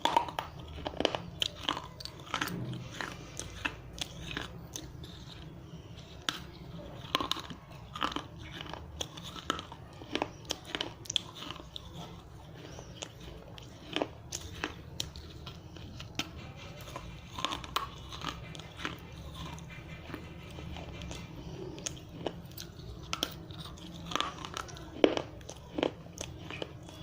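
Dry fired red clay diya being bitten and chewed: a continuous run of sharp, irregular crunches and cracks, several a second, some louder snaps standing out.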